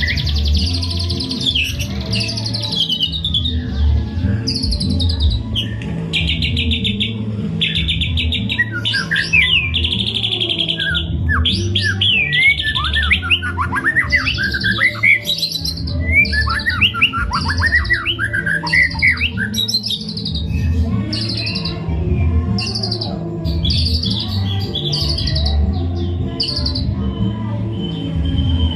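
White-rumped shama singing a long, varied song of fast trills and quick rising and falling whistles, ending in a run of short, evenly repeated phrases, over background music with a steady low beat.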